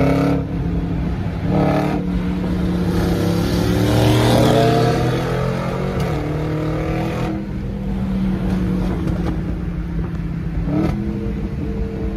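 Dodge Hellcat's supercharged V8 heard from inside the cabin under acceleration, its pitch rising for a few seconds. It then drops back to a steadier, lower drone while cruising, with road noise underneath.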